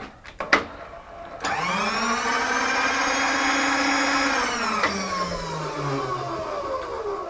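A few switch-like clicks, then an electric motor starts and whines up to speed, runs steadily for about three seconds, and is switched off with a click, its whine falling in pitch as it winds down.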